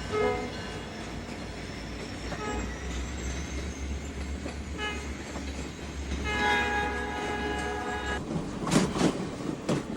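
Diesel locomotive running in a switching yard, its engine rumbling low while it sounds short horn toots and then a longer horn blast about six seconds in. Loud knocks follow near the end.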